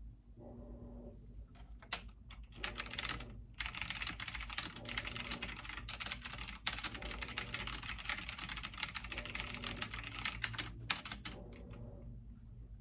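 Fast typing on a computer keyboard: a dense run of keystrokes starting about two seconds in and stopping about a second before the end, over a low steady hum.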